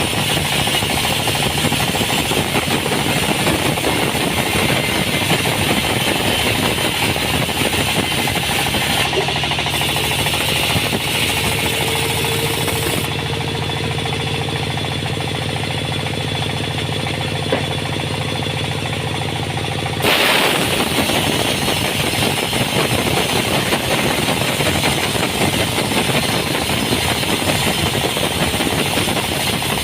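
Sawmill machinery running: a steady engine hum under a harsh, rasping saw noise. About midway, the high hiss fades for several seconds, then returns abruptly.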